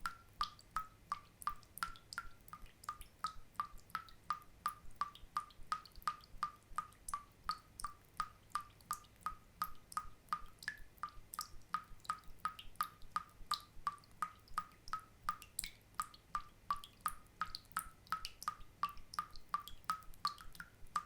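Water drops falling one after another in a steady, even rhythm, about two or three a second, each a short click with a brief pitched plink.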